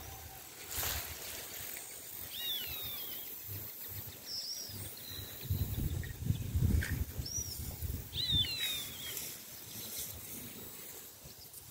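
A bird gives short, high calls every couple of seconds, some sliding sharply downward in pitch. A low rumble on the microphone rises from about five and a half to eight and a half seconds in.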